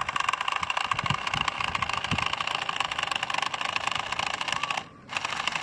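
Small electric motors of a Lego-built boat whirring with a fast buzzy rattle as they drive its two propellers; they stop for a moment near the end and start again.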